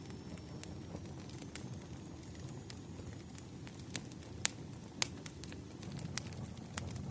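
Campfire crackling: a low steady rush of burning wood with scattered sharp pops at irregular intervals, the loudest a little past halfway.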